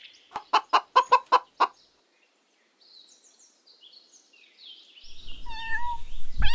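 A hen clucking, about seven short clucks in quick succession, then faint high chirps. About five seconds in, a kitten starts mewing over background noise, with a knock near the end.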